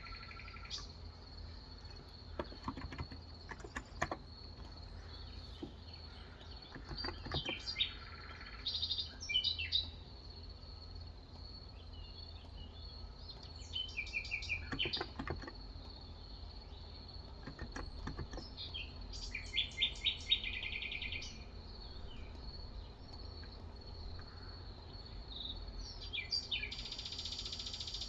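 Songbirds calling with short chirps and trills several times, over a steady faint high tone. Scattered soft keystrokes from a Cox Endeavor electrostatic-capacitive keyboard with 35 g switches come in small clusters between the calls.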